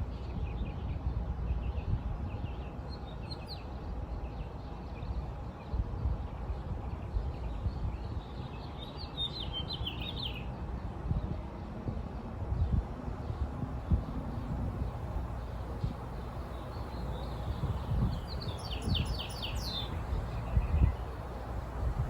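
A songbird calling in short bursts of rapid, high chirping notes, clearest twice, about nine seconds in and again near the end, over a steady low rumble.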